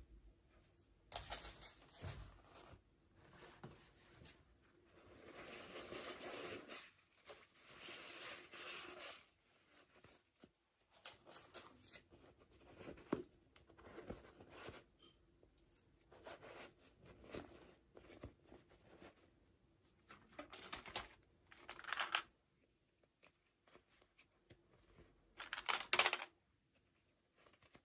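Toy packaging being torn open and crinkled by hand, in irregular rustles with a longer stretch of tearing early on and two sharper rips near the end.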